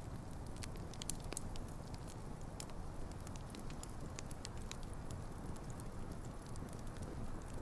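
Wood campfire burning: a steady low rush of flame with irregular sharp crackles and pops from the burning logs, several a second.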